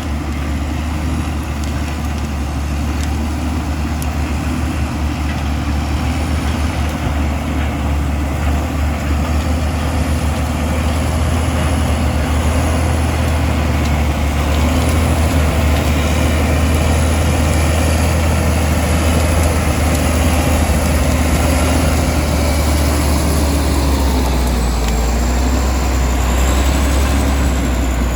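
Komatsu D65E bulldozer's diesel engine running steadily with a deep drone, the sound growing slightly louder as it goes. About three-quarters of the way through, the engine pitch dips briefly, as under a change of load. A faint high whine wavers above it.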